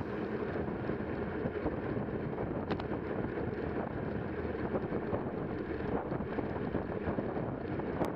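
Wind rumbling on a Garmin VIRB action camera's microphone while riding.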